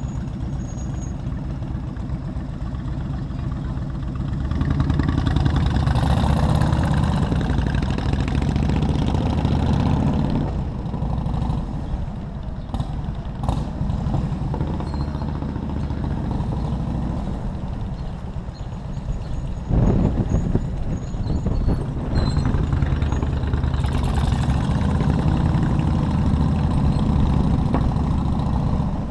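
Motorcycle engine running while riding in city traffic, growing louder about five seconds in, easing off near ten seconds and louder again from about twenty seconds.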